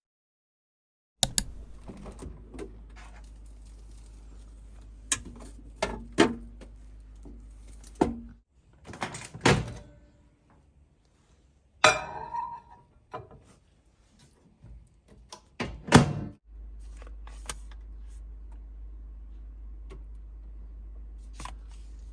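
A series of irregular knocks, thunks and clicks, like objects being handled and set down, over a faint low hum, with the loudest knocks about twelve and sixteen seconds in.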